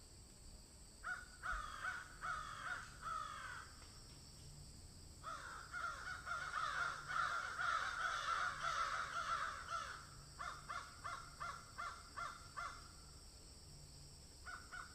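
Repeated harsh animal calls, each a short falling cry, coming in three runs with gaps between them; the middle run is the densest and loudest.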